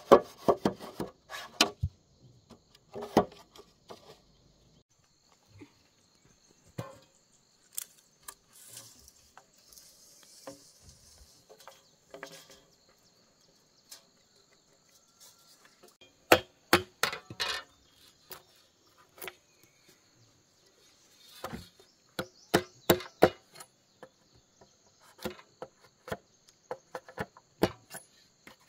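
Wood being struck by hand in irregular clusters of sharp knocks, as in building a wooden fence, over a steady high insect trill.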